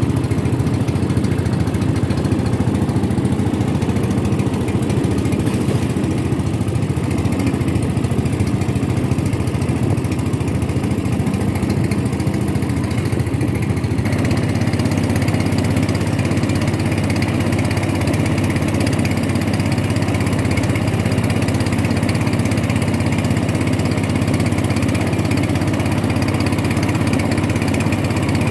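Boat engine running steadily, its sound shifting and growing a little fuller about halfway through.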